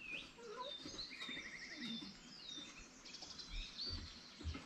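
Songbirds chirping and twittering, with a quick trill of repeated notes about a second in. A few soft low thumps near the end.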